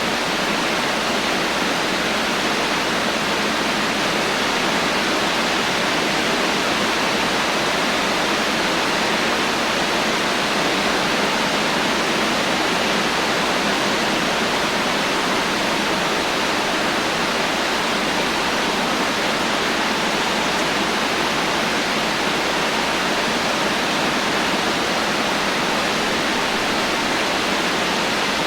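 Heavy rain falling as a steady, dense hiss with no thunder.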